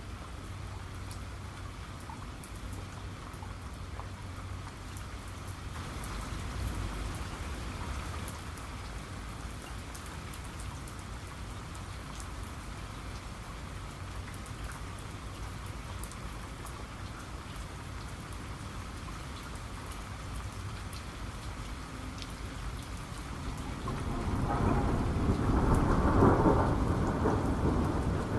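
Steady rain falling, with scattered sharp drop ticks. A faint low rumble of thunder comes about a quarter of the way in, and a louder roll of thunder builds near the end.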